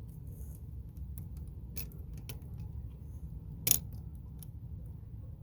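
Small metal parts, a battery terminal clamp and its screw, clicking and ticking as they are handled and fitted, with one sharper click a little past halfway. A low steady rumble runs underneath.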